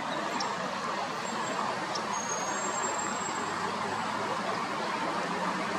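Steady outdoor background noise of distant road traffic: an even hiss with a faint low hum.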